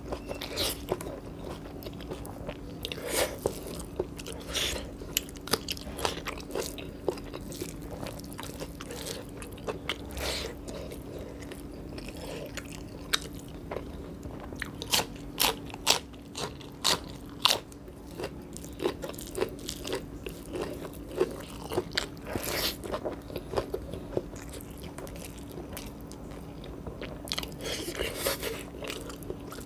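Close-up eating sounds: a person chewing rice and biting raw okra pods, with irregular sharp crunches and wet mouth clicks. A steady low hum runs underneath.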